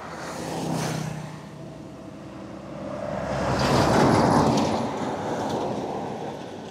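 Road traffic passing close by: one vehicle goes past with a low engine hum about a second in, then a louder vehicle rushes past, peaking around four seconds in and fading away.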